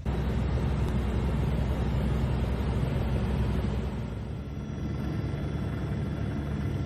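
A large engine running steadily with a low drone, starting abruptly.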